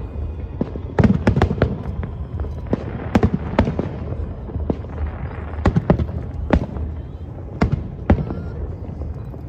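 Aerial fireworks bursting: about twenty sharp bangs come in irregular clusters, over a steady low rumble of the ongoing display.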